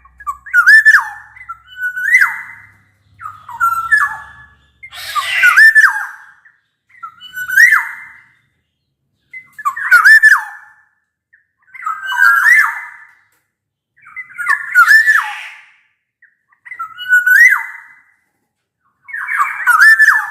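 Black-naped oriole singing: a string of short, fluting whistled phrases, repeated about every two seconds, each with a rasping edge.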